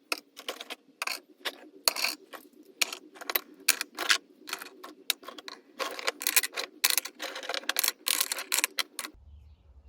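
Small pieces of scrap metal clinking and clattering as they are handled. There are dozens of sharp clicks at uneven intervals, and they stop about nine seconds in.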